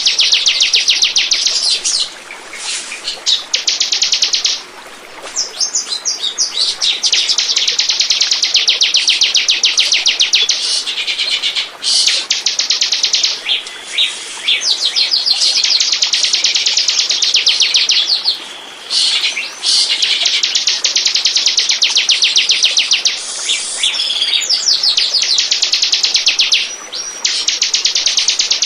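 Bar-winged prinia (ciblek) calling: long runs of rapid, evenly repeated high chirps, each run lasting several seconds, broken by short pauses.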